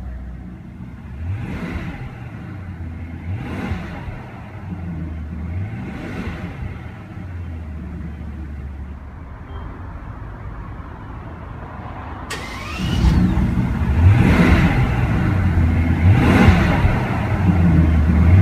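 Mercedes-Maybach S600's 6-litre twin-turbo V12 idling and being revved in short blips about every two seconds, each rising and falling back. About twelve seconds in the sound suddenly becomes louder and brighter, and the revs go on.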